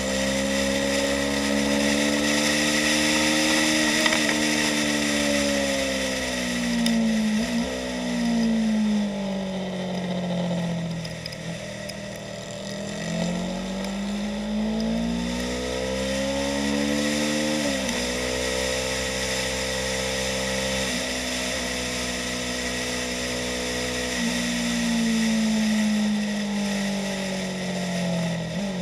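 Yamaha YZF-R3's parallel-twin engine at speed on track, with wind rushing past. The engine's pitch climbs under acceleration and sinks off the throttle through the corners, dropping suddenly at an upshift about eighteen seconds in.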